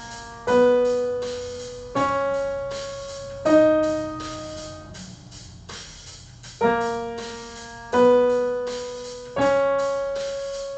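Piano playing single notes one at a time, each struck sharply and left to ring and fade: three notes stepping upward about a second and a half apart, a pause, then another three rising notes. It is a short pattern in the A sharp set, meant for students to play along with or echo back.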